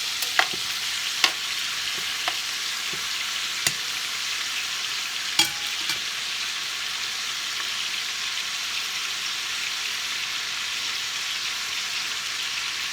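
Chicken pieces frying in hot bacon grease in a pot: a steady sizzle with a few sharp crackles in the first half.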